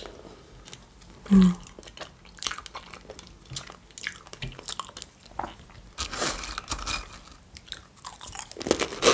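A person eating close to the microphone: irregular bites and chewing with crunches, and one brief louder low sound about a second and a half in.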